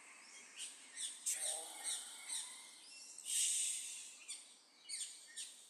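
Birds chirping: a run of short, high calls, about two a second, with a louder, longer call about three seconds in.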